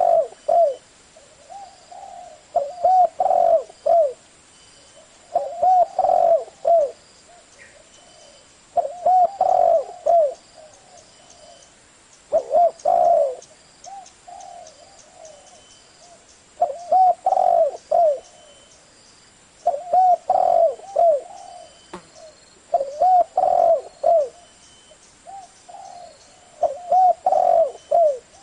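Spotted dove cooing in a deep 'thổ' voice: a short phrase of several low coos, repeated about every three to four seconds, the kind of call used to lure wild doves.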